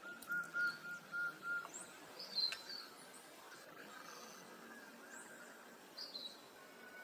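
Birds calling: a quick run of about five even, clear notes near the start, then a few short, high chirps, one with a sharp click, over faint outdoor background hiss.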